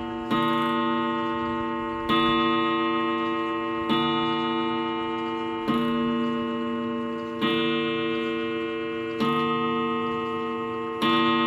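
Baduf mantle clock striking: a run of evenly spaced ringing strikes about every 1.8 seconds, each left to die away slowly into the next, counting out the hour. Seven strikes fall here.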